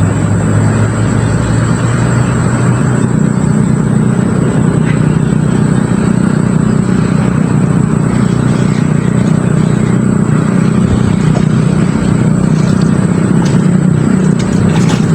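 A steady engine-like hum with no speech, its pitch stepping up slightly about a second in and again around three seconds in.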